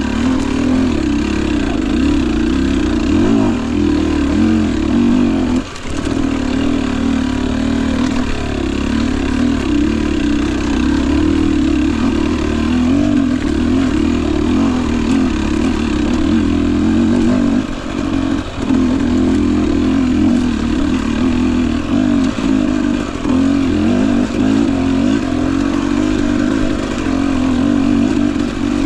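Husqvarna TE 250i two-stroke dirt bike engine running continuously, its pitch rising and falling with the throttle, with a brief drop in the note about six seconds in.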